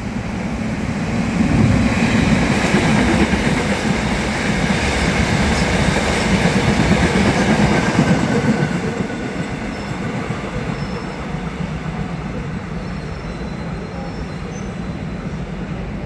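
Freight train running through a station without stopping: a heavy rumble and clatter of wagon wheels on the rails. It swells to its loudest about a second and a half in and eases to a steadier rolling noise after about eight seconds.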